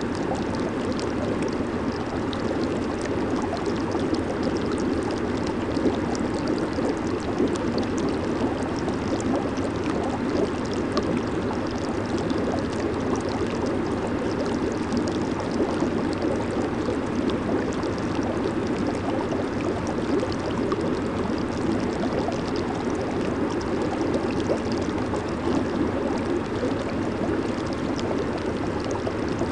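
Jacuzzi hot tub churning its water: a steady rush of bubbling water with fine popping of bubbles at the surface.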